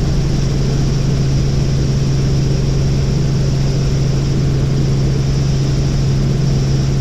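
Helicopter in flight: steady engine and rotor drone with a strong, unchanging low hum.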